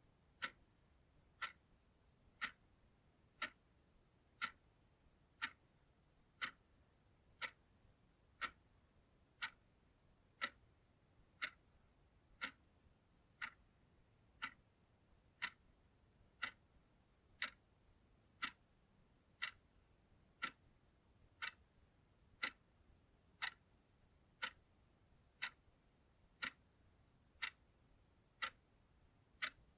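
Clock ticking steadily, one short, sharp tick every second.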